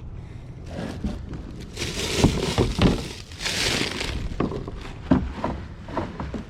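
Close handling noise: crinkling and rustling with scattered clicks and knocks, loudest a couple of seconds in.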